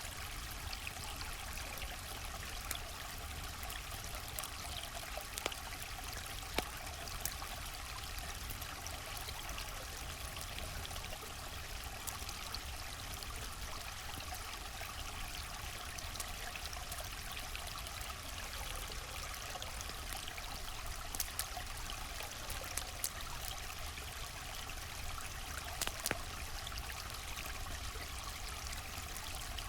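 River water flowing in a steady rush, with a scattering of single sharp pops from a crackling campfire.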